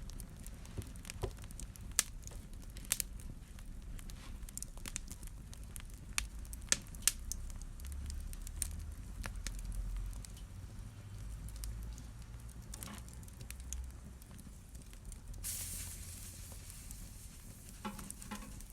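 Wood fire in a fireplace crackling, with scattered sharp pops over a low rumble. There is a brief hiss of about a second around three-quarters of the way through.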